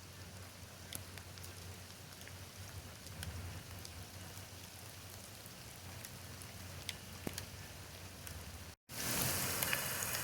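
Steady rain falling, with scattered drops tapping close by. The sound drops out for an instant about nine seconds in and comes back as heavier, louder rain.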